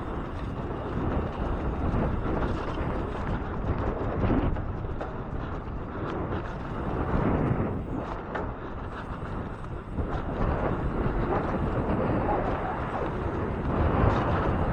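2014 Transition Covert 26er mountain bike running down a dirt jump trail: knobby tyres rolling on dirt and the chain and frame clattering over the bumps, with wind rushing over the microphone. The noise swells a few times through the run.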